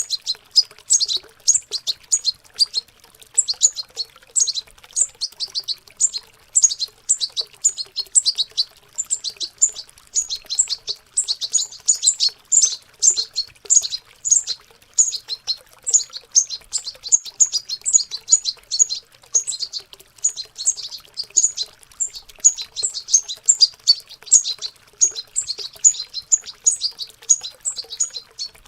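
Young European goldfinches in subsong, a continuous run of rapid, high twittering chirps as the birds practise their song. Water trickles faintly underneath.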